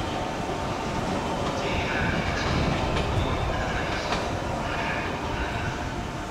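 Kumoya 143 single-car electric rail car rolling away over the points, its wheels clicking now and then over the rail joints under a steady rumble, with bursts of high-pitched wheel squeal.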